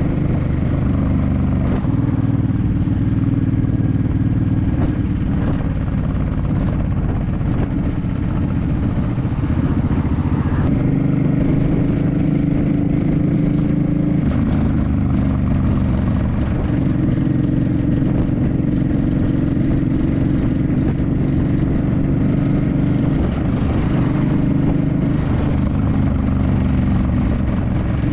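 2006 Suzuki C50 cruiser's V-twin engine running under way at city speeds. Its note holds steady, then steps to a new pitch several times as the throttle and gears change.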